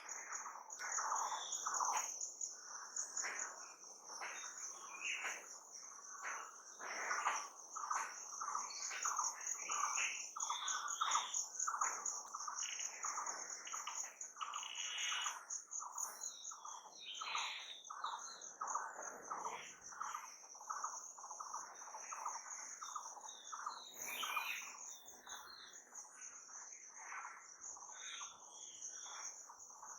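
Birds chirping in quick, busy calls over a continuous high-pitched insect trill.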